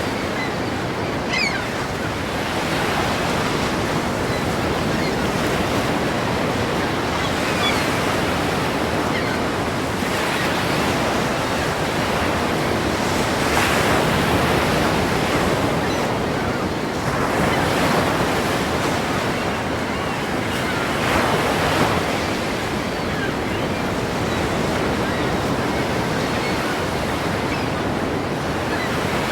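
Ocean waves breaking in a continuous surging wash, with a few louder swells as bigger waves crash in, about halfway through and again a few seconds later.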